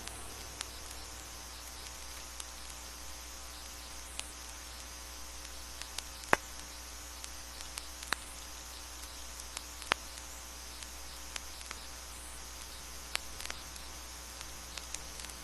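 Vinyl record surface noise: a steady hiss and low hum with scattered clicks and pops, the loudest about six seconds in and others near eight and ten seconds.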